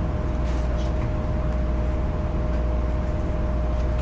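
Steady low rumble and hum of a train with one constant whining tone over it, and a few faint clicks.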